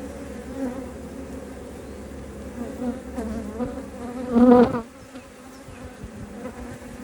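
Honeybees buzzing around an open hive, a steady pitched hum. About four and a half seconds in, the buzz swells loudly and wavers in pitch for about half a second.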